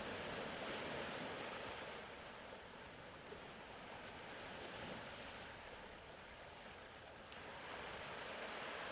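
Faint ocean waves washing on a shore, a soft hiss that slowly swells and ebbs in long surges.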